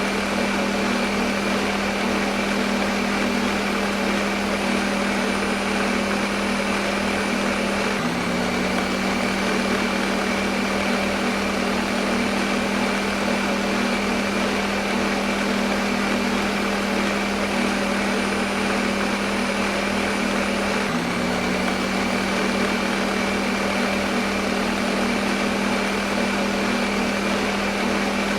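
Electric kitchen blender running steadily with an even motor whir and a constant hum, its pitch dipping briefly twice.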